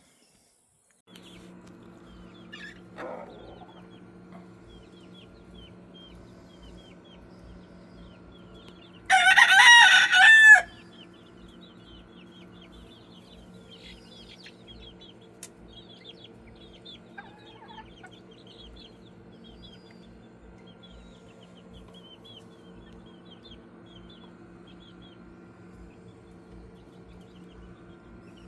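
A rooster crows once, loudly, about nine seconds in, for about a second and a half. Under it runs a steady low hum, with faint high chirps scattered throughout.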